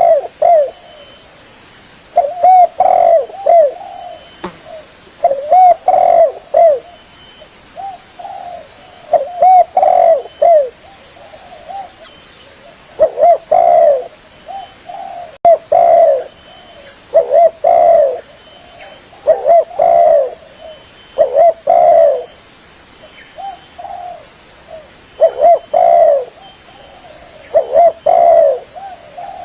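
Spotted dove (tekukur) cooing: a loud, melodious phrase of several short arching coos, repeated every three to four seconds.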